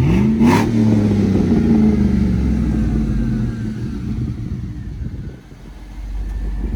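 A truck engine revved once: its pitch climbs quickly, then eases back down over a few seconds and settles toward idle.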